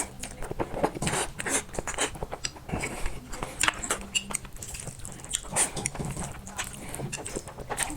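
Close-up eating sounds of a person chewing black noodles and fried eggs: many quick, irregular mouth smacks and clicks.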